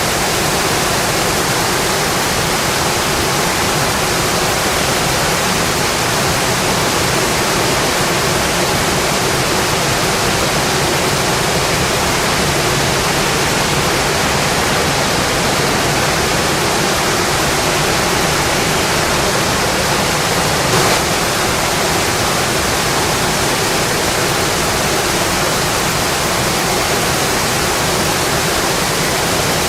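Steady, even rainfall hiss with no letup, with one faint tick about two-thirds of the way through.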